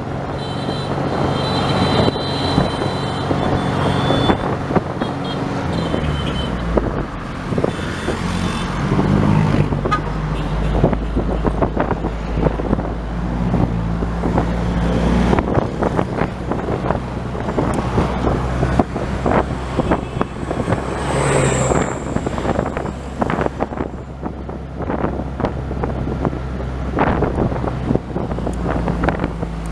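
Running engine and road noise of a moving vehicle, with wind on the microphone; the engine pitch rises and falls several times as the vehicle changes speed.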